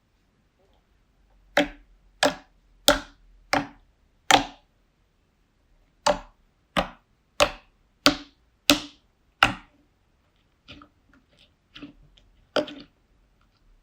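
Slime being pressed by hand, a short sharp pop with each press, about three every two seconds. There are two runs of evenly spaced pops, then a few fainter, more scattered ones near the end.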